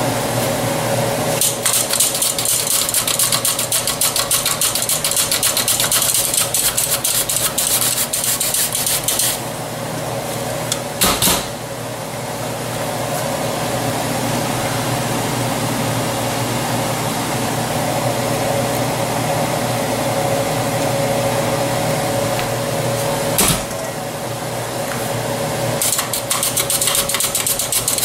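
Stainless-steel BRON mandoline julienning carrots: a fast, steady mechanical rattle of the blade carriage working back and forth over the cutting blades, with a held hum beneath. The rattle is busiest near the start and again near the end, with two sharp knocks in the middle stretch.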